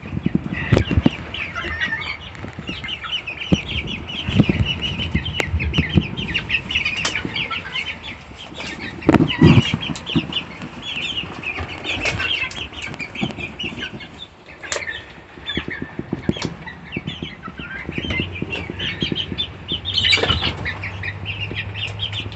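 A flock of chickens feeding: many short, high calls throughout, with wing flaps and scattered knocks, over steady storm rain.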